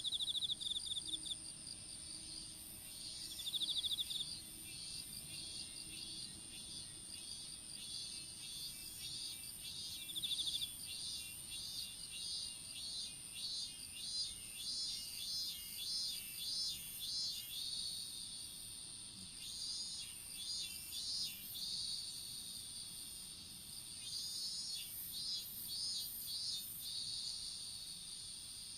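Several insects calling together in a field: one keeps up a steady high-pitched trill, others give rhythmic chirps about twice a second, and a few short louder trills come near the start and again around four and ten seconds in.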